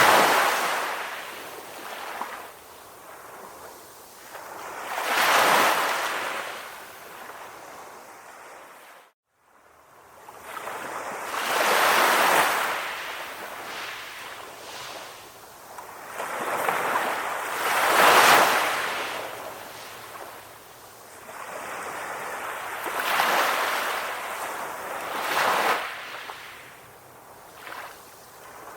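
Ocean waves washing ashore in slow, repeated surges, each swelling and then fading over several seconds. The sound cuts out briefly about nine seconds in.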